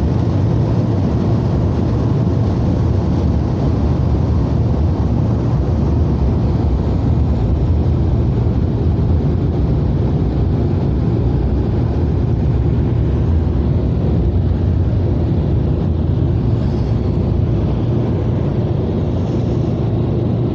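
Ryko SoftGloss XS2 in-bay automatic car wash running, a steady low rumble that does not change.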